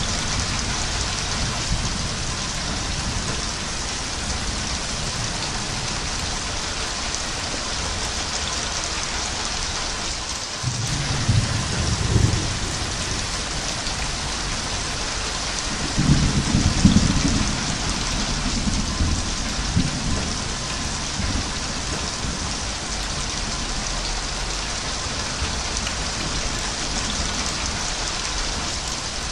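Steady heavy rain hiss, with low rumbles of thunder about eleven seconds in and again, longer and louder, about sixteen seconds in.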